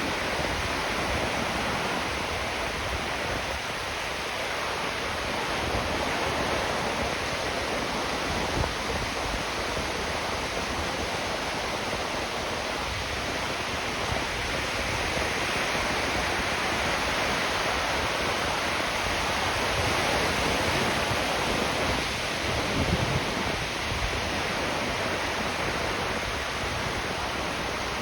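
Ocean surf breaking and washing up the beach: a continuous rushing hiss that swells and eases only slightly.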